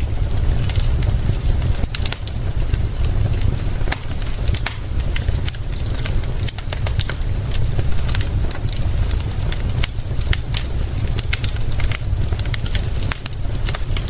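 Fire crackling with frequent sharp pops, over a steady low rumble.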